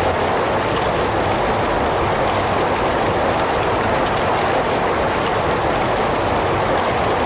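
Heavy rain falling in a steady, even wash with no breaks or changes, strongest in the middle range.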